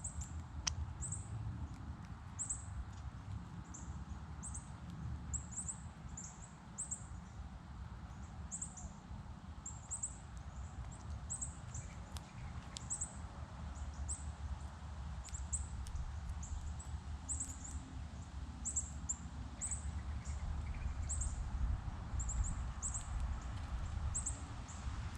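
Small birds giving many short, high-pitched chirps at irregular intervals, over a steady low rumble.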